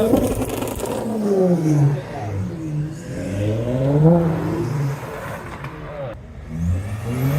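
Car engine revving, its pitch falling and rising several times in long swells, with the loudest rise near the end.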